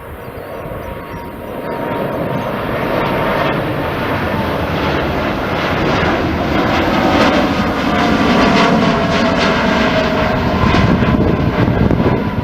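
Jet airliner passing close, its engine roar building over the first couple of seconds and staying loud, with a whine that slides down in pitch as it goes by.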